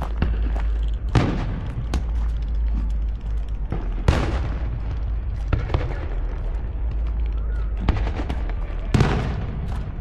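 Fireworks going off in quick succession: aerial shells bursting with heavy booms, the loudest about four seconds in, and lighter crackling pops between them, over a steady low rumble.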